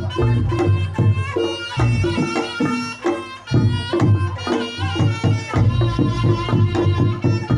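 Reog Ponorogo music played live: a slompret, a loud Javanese double-reed trumpet, plays a wavering melody over kendang drum strokes and other percussion, with a brief dip about three seconds in.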